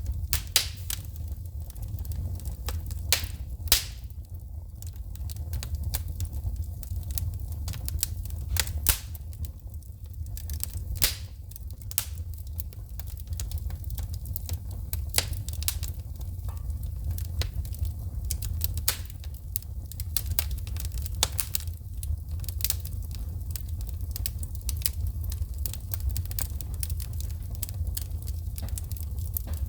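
Wood fire in a fireplace crackling, with frequent sharp pops and snaps of sparks shooting from the burning logs over a steady low rumble of the flames.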